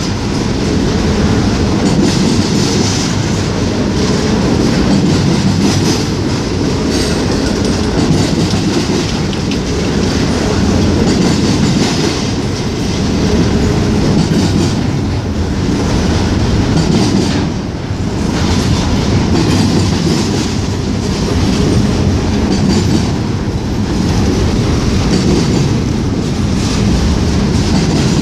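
Norfolk Southern freight train rolling past close by: a steady, loud rumble of cars with wheels clacking over the rail joints.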